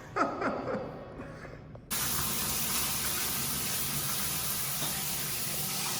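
Shower spray running in a steady hiss, cutting in suddenly about two seconds in, after a brief vocal sound.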